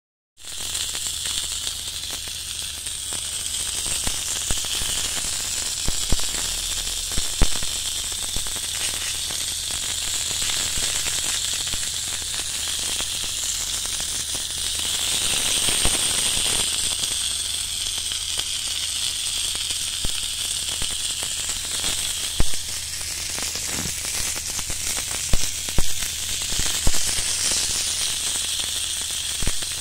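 Arayes, meat-stuffed pita halves, sizzling in a ridged grill pan: a steady frying hiss with scattered sharp pops and crackles.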